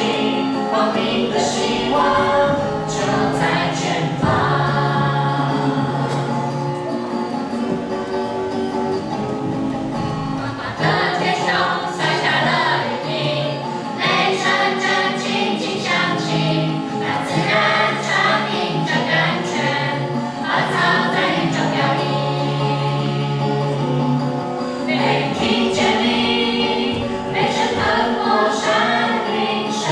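A choir singing in parts, with chords held over sustained low notes.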